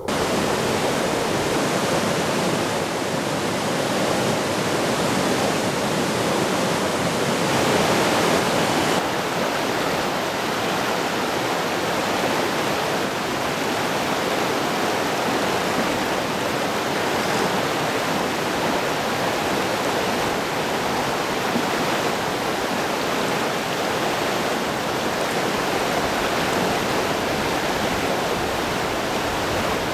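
Mountain stream rushing over rocks: a steady, loud rush of running water.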